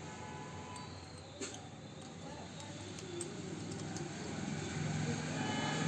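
A few faint, sharp clicks of small metal torch parts being handled and fitted together, over a steady low background hum.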